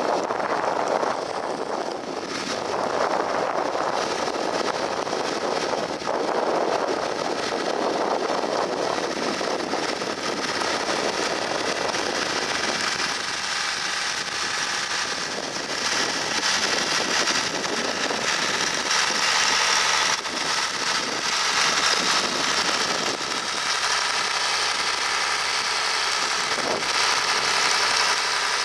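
John Deere 3350 tractor's diesel engine running steadily as it pulls a three-furrow reversible plough; its engine note comes through more clearly about halfway through.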